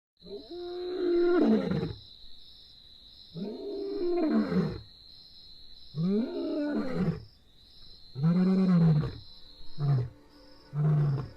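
Lion roaring: four long, deep roars a couple of seconds apart, then shorter grunting roars coming faster near the end, the typical pattern of a lion's roaring bout. A steady high-pitched tone runs underneath.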